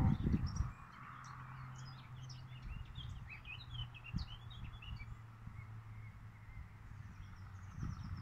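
Small birds chirping in many short, high calls, thickest in the first five seconds, over a steady low hum. A few low knocks at the very start.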